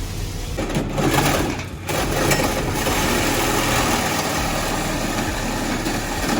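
Cammed Chevrolet Caprice PPV engine revved hard to blow out an exhaust plugged with broken-up catalytic converter material: a loud rush of exhaust noise over the running engine, dipping briefly about two seconds in.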